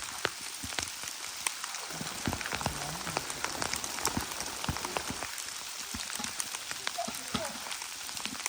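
Steady rain falling, with many sharp individual drop hits ticking over a continuous hiss.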